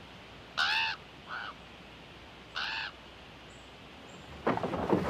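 A bird cawing three times, harsh calls like a crow's, the middle one shorter and fainter. A louder, rough noise starts near the end.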